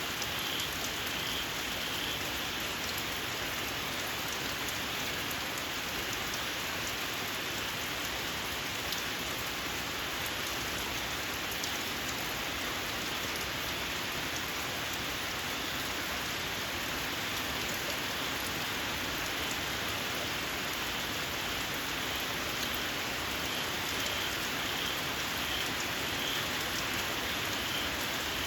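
Steady rain falling, with small frogs calling in short, high, evenly repeated chirps at the start and again over the last few seconds.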